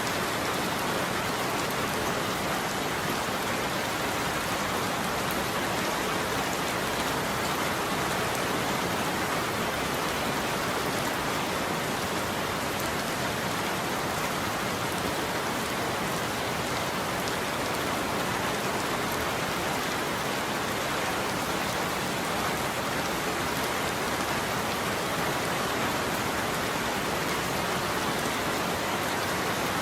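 Steady heavy rain falling on a roof: a dense, even hiss of drops with no breaks or thunderclaps.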